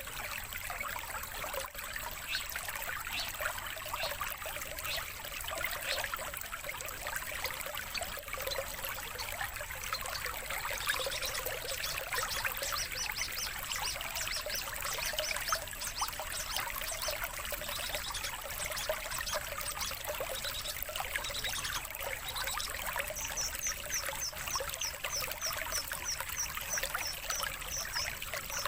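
Water trickling and pouring steadily, like a small stream, with a songbird's quick runs of high chirps coming in about halfway through and again near the end.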